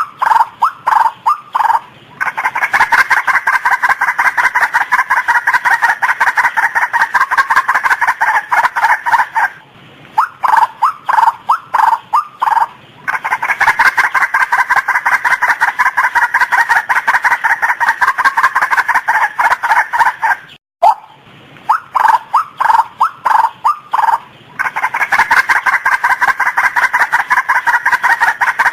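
Female white-breasted waterhen calling. Each time it gives a few separate notes that run into a long, fast, monotonous series of harsh calls lasting several seconds, breaks off briefly, and starts again, three times over.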